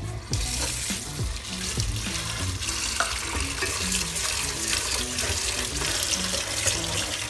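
Tap water running into a rice cooker's inner pot of uncooked rice, splashing as a hand swishes the rice to wash it. The water starts about a third of a second in.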